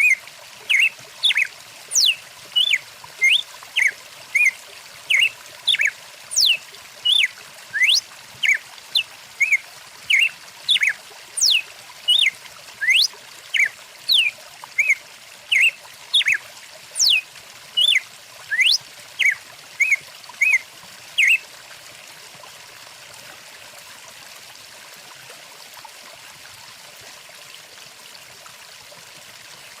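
Songbird calling over the steady rush of a flowing stream: short notes repeated a little more than once a second, now and then a sharp falling whistle. The calls stop about two-thirds of the way through, leaving only the running water.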